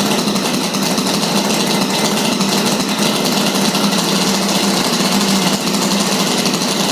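Single small gasoline engine of a quadcopter running steadily at a constant speed, loud and even throughout.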